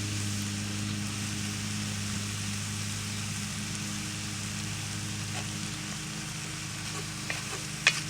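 Chicken and smoked sausage sizzling steadily in oil in a Dutch oven sitting in hot coals, with a few sharp clicks near the end.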